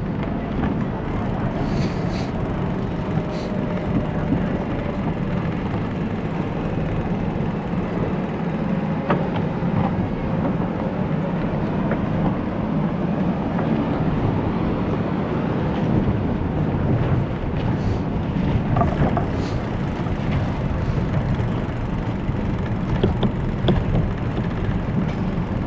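Steady low rumbling noise of riding a bicycle, mostly wind on the microphone, with a few faint clicks.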